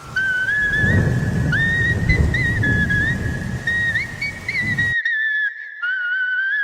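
Rain-like rushing noise with a high, whistle-like tune running over it. The rushing cuts off suddenly about five seconds in, while the tune carries on.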